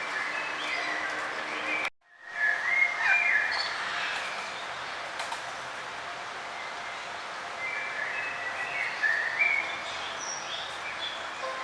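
Small songbirds chirping and warbling in short, high notes over a steady outdoor hiss, with the sound cutting out abruptly for a moment about two seconds in.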